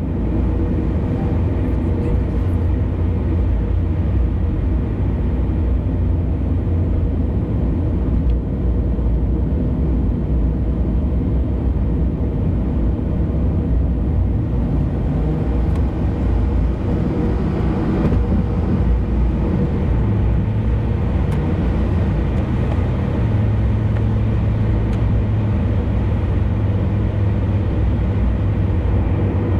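A car driving on an expressway: steady low rumble of tyres and engine.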